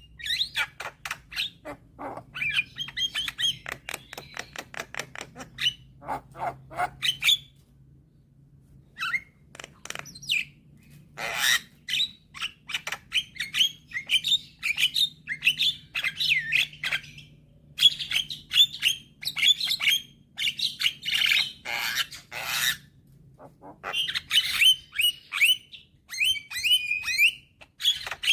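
Young Javan myna (jalak kebo) singing in a long, busy run of chattering squawks, clicks and short whistled notes, with brief pauses about eight and ten seconds in.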